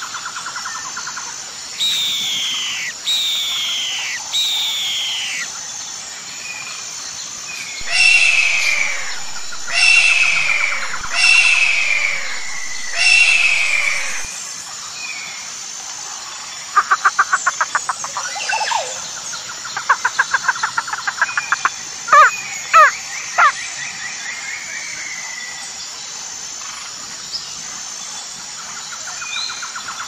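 Wild birds calling: in the first half, a run of loud downward-sliding whistled calls a second or two apart; later, fast rattling trills and a few sharp notes. A steady high-pitched hiss runs underneath.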